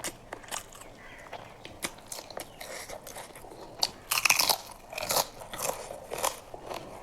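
Close-miked eating: a person biting and chewing food, with many short wet mouth clicks and a louder crunchy stretch about four seconds in.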